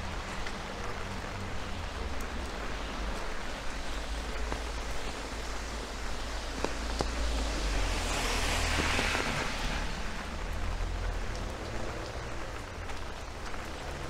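Steady rain falling on a city street, with a low rumble underneath. A rush of hiss swells up and fades away about eight to ten seconds in.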